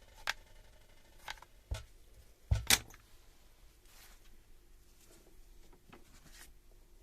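A few scattered clicks and knocks of tools and parts being handled on a workbench, the loudest a pair of knocks close together about two and a half seconds in, then fainter clicks.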